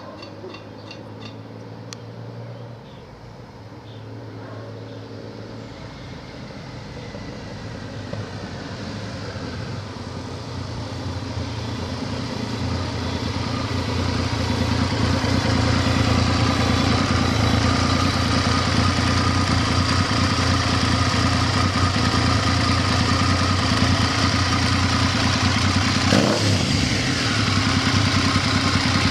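Triumph Thunderbird 900's three-cylinder engine running, growing steadily louder over the first half and then holding steady, with a brief dip and rise in engine pitch near the end.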